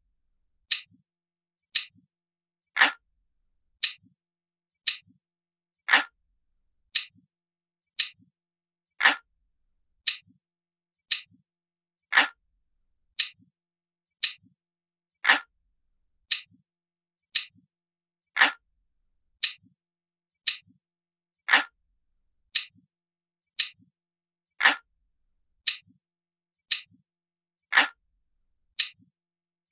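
Crisp, glass-like clock ticking sound effect, one tick a second, with every third tick louder and fuller than the two between.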